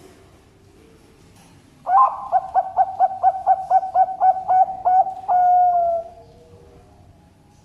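A Bangkok-type zebra dove (perkutut) singing: a quick run of about a dozen coos, about four a second, ending in one longer, slightly falling coo.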